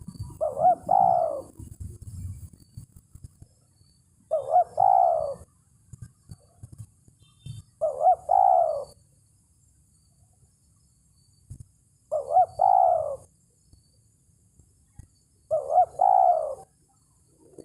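Spotted dove cooing: five short, alike coo phrases spaced about four seconds apart. This is the tekukur's challenge call to a rival.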